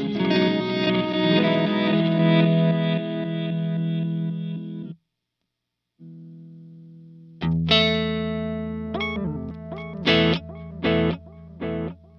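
Overdriven Fender Stratocaster played through the Sonicake Sonic Ambience delay and reverb pedal into a Vox AC30 amp. A busy passage stops abruptly about five seconds in, and after a second of silence a note rings, a loud strummed chord comes in, and several short chord stabs follow, their tails ringing on between them.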